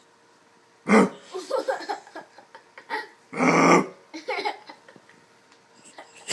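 A man barking like a dog: a loud, short bark about a second in and a longer, louder one around three and a half seconds in, with softer grunting sounds between, as he tries to trigger a bark-activated shock collar on his own throat.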